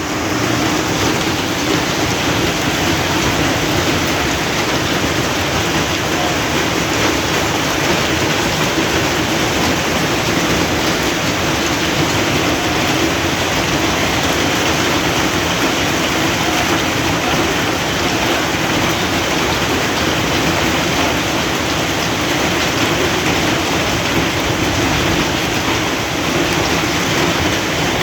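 Hailstorm: hail and rain falling steadily onto surfaces, a dense, unbroken patter of many small impacts.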